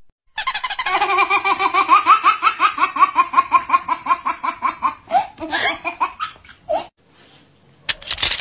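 A high-pitched, rapid laugh, a run of even 'ha-ha-ha' pulses about five a second for some four seconds, trailing off into a few broken laughs, followed by a short loud burst near the end.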